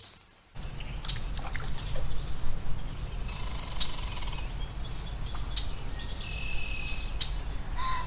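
Outdoor ambience: a steady low rumble with a few scattered bird chirps, the quick high ones coming near the end.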